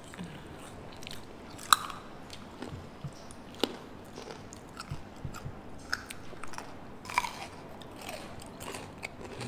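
Close-miked eating sounds: chewing and crisp bites of raw cucumber, with a few scattered sharp clicks, the loudest about two seconds in.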